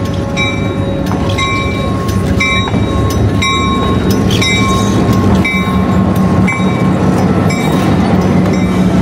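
Diesel locomotive pulling a passenger train slowly past, its engine droning low and growing a little louder as it comes alongside. A bell rings about once a second throughout.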